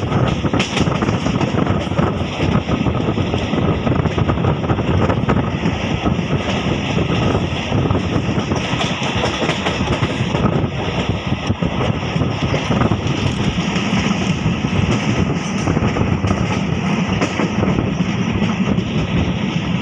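Passenger train coach running at speed, heard from its open window: a loud steady rumble of steel wheels on the rails, with scattered clicks as the wheels pass rail joints.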